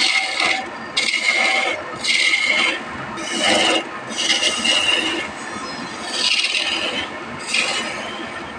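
A hand tool worked back and forth on wood in repeated rasping, scraping strokes, roughly one stroke a second with short gaps between them.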